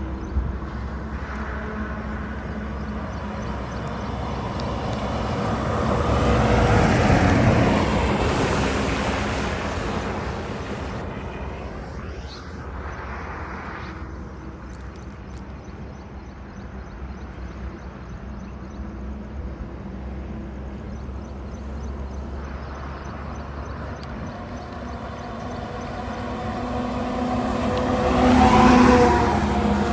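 Heavy trucks passing by on a highway, with engine hum and tyre noise. One swells to its loudest about seven seconds in and fades; another builds to a peak near the end.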